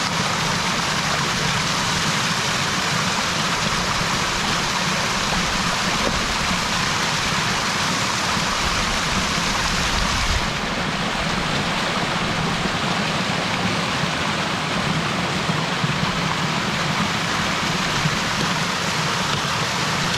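Steady rush of running water, an even hiss with no break; its brightest part dulls slightly about halfway through.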